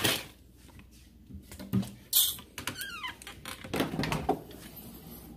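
Things being handled in a kitchen: a few short knocks and rustles, and a short high squeak that falls in pitch about three seconds in.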